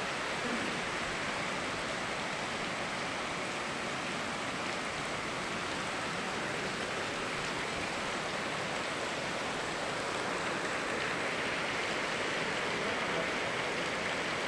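Steady rushing of rain mixed with a flowing river, an even wash of water noise without single drops or splashes standing out.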